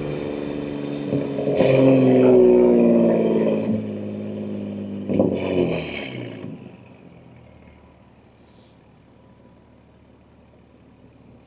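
Exhaust of a BMW M2 G87's twin-turbo S58 straight-six, running through catless downpipes and an equal-length mid pipe, pulling under load. Two surges in the engine note come about one and five seconds in. About six and a half seconds in the car eases off, and the note fades to a quiet, low hum.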